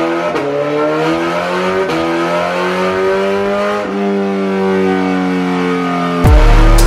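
2024 Suzuki Hayabusa's inline-four running on a chassis dyno through a full Voodoo exhaust, revving up through the gears with the pitch climbing and dropping back at each shift, about every one to two seconds. About six seconds in it turns suddenly much louder and deeper as the full-throttle baseline pull begins.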